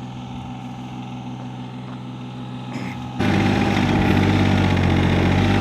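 A John Deere 855 compact tractor's diesel engine running steadily. It grows slowly louder, then about three seconds in it suddenly gets much louder and fuller.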